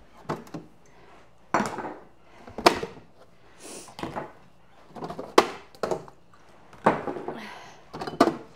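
Jars and food containers being moved and set down on refrigerator shelves: a series of separate clunks and clatters, with a short hiss about halfway through.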